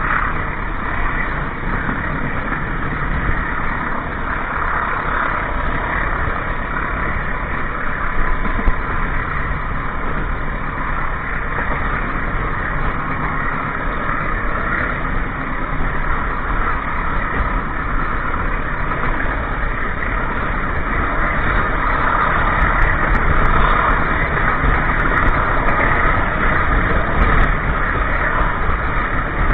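Passenger train running, heard from inside a coach's toilet: a steady rumble and rattle of wheels on the rails, growing a little louder after about twenty seconds, with a few faint clicks near the end.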